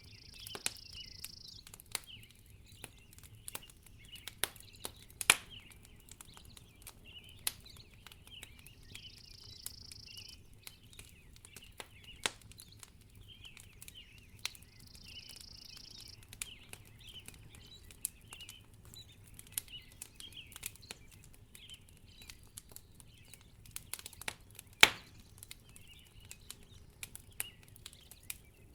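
Wood fire in a fireplace crackling, with irregular sharp pops and snaps; one louder pop about 25 seconds in. Faint high twittering runs along underneath.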